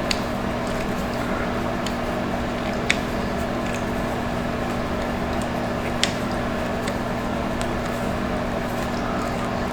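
Steady electric hum with an even whirring hiss, like a fan or motor running, broken by a few light clicks.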